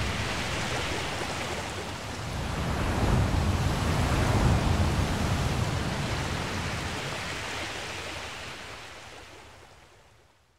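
Ocean waves washing in: a steady rush of surf that swells about three seconds in, then slowly fades out to silence.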